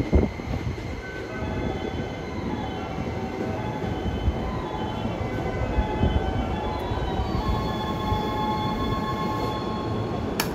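E261 series electric multiple unit rolling into the platform and braking to a stop, with a string of high-pitched squealing tones at several pitches over a steady rumble. There is a knock at the start and a sharp click near the end.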